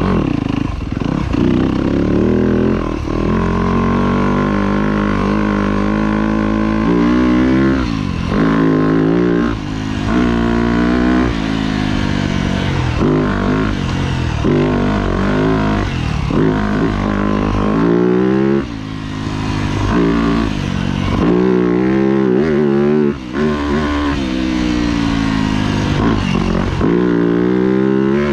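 2025 Yamaha YZ250F four-stroke single-cylinder engine revving hard under load, its pitch climbing and falling again and again as the throttle is worked on and off around a motocross track.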